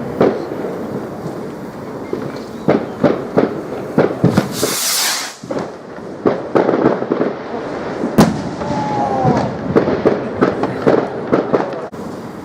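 Fireworks going off with rapid crackling pops throughout. A hissing whoosh comes about four and a half seconds in, and a single sharp bang about eight seconds in.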